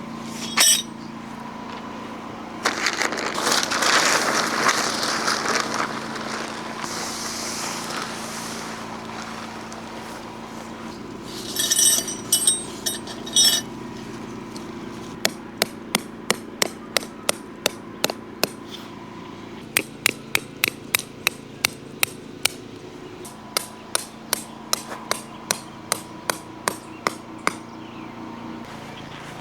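Hammer blows driving tent stakes into the ground, about two strikes a second in several runs through the second half. Earlier there is rustling, then a few ringing metal clinks, likely the stakes being handled.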